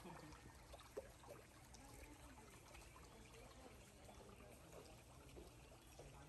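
Near silence: a faint even background hiss with a single light click about a second in.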